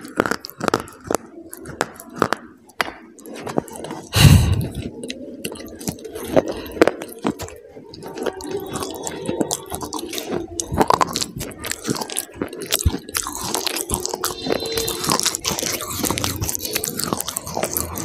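Close-miked biting and crunching of brittle chalk- or clay-like sticks, with chewing between the bites. There is a loud low thump about four seconds in.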